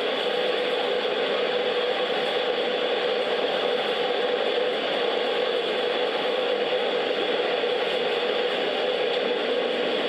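Train running steadily: a constant whir and hum that does not change through the stretch.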